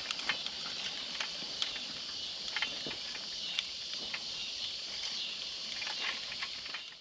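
A push garden seeder rolling along a row over dry, hard soil, with irregular clicks and ticks from its wheels and seed plate, over a steady high-pitched insect drone.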